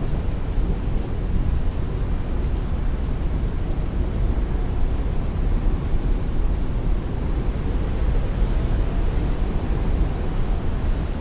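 Heavy rain beating on a window in strong wind: a steady, deep rushing noise with faint ticks of drops over it.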